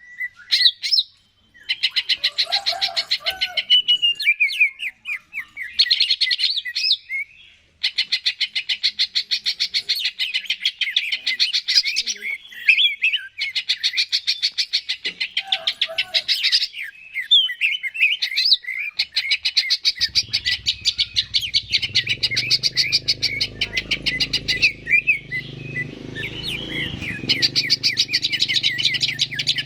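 Cucak ijo (green leafbird) singing a loud, rapid chattering song of fast repeated notes and short whistled slurs, with brief pauses. A low steady hum joins beneath the song about two-thirds of the way in.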